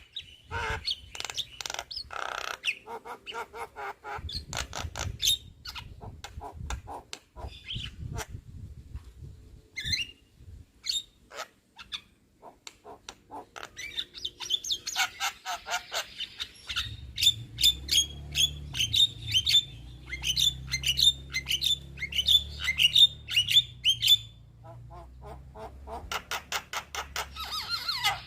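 Young Javan myna chattering and calling: harsh squawks, rapid clicks and short whistles. In the second half comes a long run of evenly repeated sharp notes, about three a second, over a low rumble.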